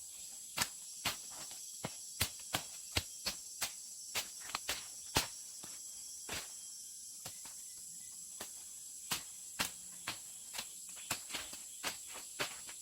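Forest insects keep up a steady high-pitched chorus. Sharp, irregular clicks or taps come over it, about two or three a second.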